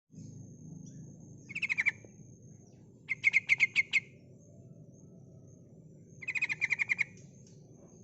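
Female yellow-vented bulbul (trucukan) giving its calling chatter: three short bursts of rapid repeated notes, the longest about a second in the middle, over a faint steady high-pitched tone.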